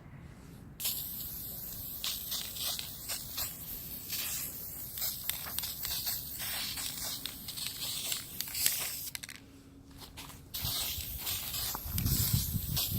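Aerosol spray paint can spraying in a long steady hiss, stopping about nine seconds in and starting again a second and a half later. Wind rumbles on the microphone near the end.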